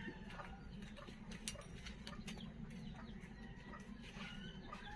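Chickens clucking faintly in the background, short scattered calls, with a few light clicks and a low steady hum.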